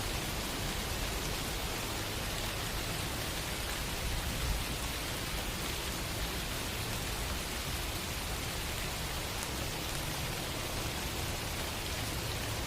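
Steady rain falling: an even hiss of many drops with a low rumble underneath, holding at one level throughout.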